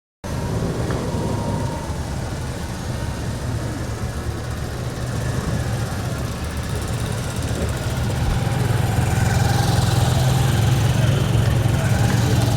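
Motorcycle engines running steadily, getting louder about eight seconds in.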